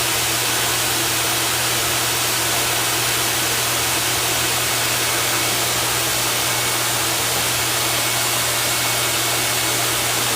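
Steady, loud whooshing machine noise with a constant low hum underneath, unchanging throughout.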